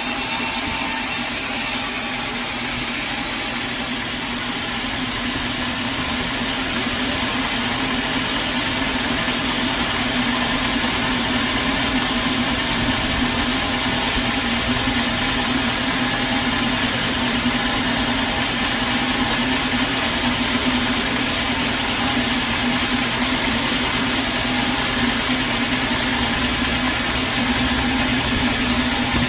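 Sawmill engine running steadily with a constant hum. The high sound of the saw blade cutting through wood fades out about two seconds in, leaving the machine running without cutting.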